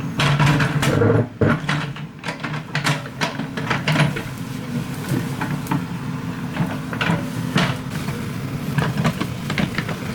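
Excavator's diesel engine running steadily, with frequent short metallic clanks and knocks of the machine at work.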